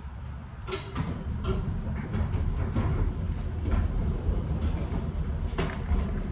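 Box truck on the move: a low road rumble that builds about a second in, with scattered clanks and rattles.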